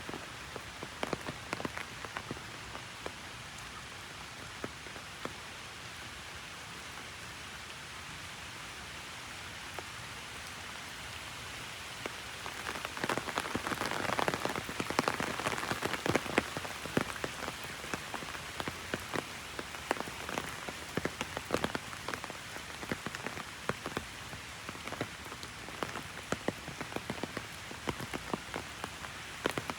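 Heavy rain falling on an umbrella overhead: a steady hiss dotted with many sharp individual drop hits. The rain grows heavier and louder for a few seconds around the middle, then eases back.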